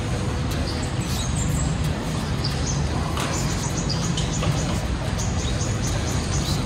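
Birds chirping in short high calls, over and over, above a steady rushing noise.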